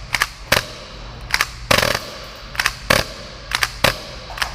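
Gas airsoft Hi-Capa pistol, a full-auto 30-rounds-per-second build, firing sharp cracks in irregular singles and short pairs instead of a continuous burst. The gun is failing, firing only one or two rounds at a time, which the shop later traced to a broken valve knocker.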